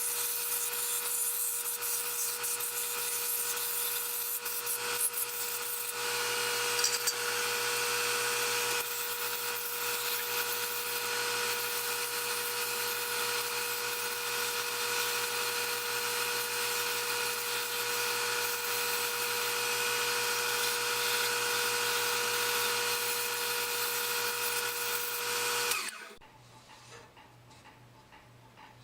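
Wood lathe running with sandpaper held against the spinning wooden candlestick: a steady motor hum under a continuous sanding hiss. About 26 seconds in, both stop abruptly and it goes nearly quiet.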